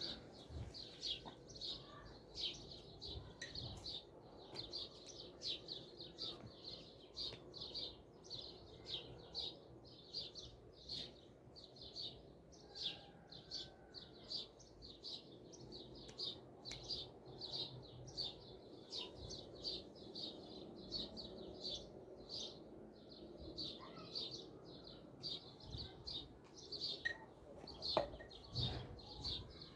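A bird chirping repeatedly, short high calls about twice a second that keep going throughout. A single sharp click sounds near the end.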